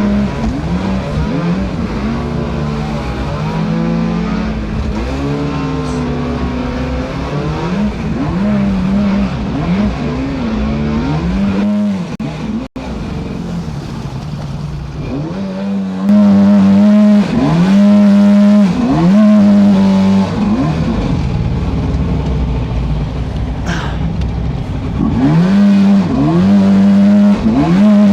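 The creek boat's motor running with a steady whine whose pitch keeps rising and falling as the throttle changes, over a constant rush of noise.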